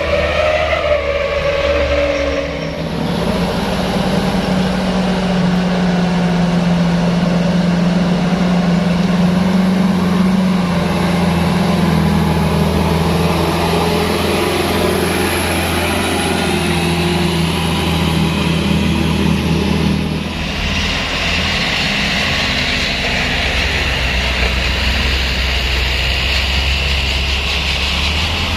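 Truck engine running steadily, with a low hum throughout; about twenty seconds in the sound shifts and a hiss rises above it.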